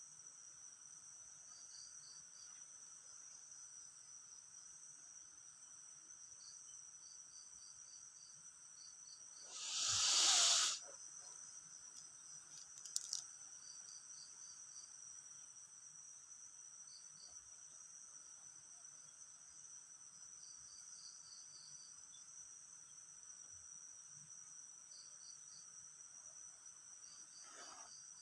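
Steady chorus of crickets or other insects: two continuous high trills, with groups of short chirps repeating every few seconds. About ten seconds in, a loud rushing hiss lasts about a second, and a few faint clicks follow shortly after.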